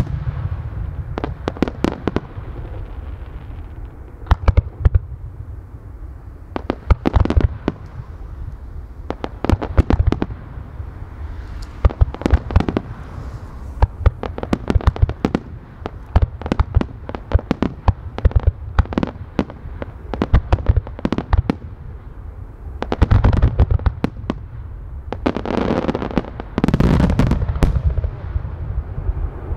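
Starmine fireworks display: aerial shells launching and bursting in quick succession, sharp bangs in clusters every second or two. Near the end they build to a dense, continuous barrage of bursts.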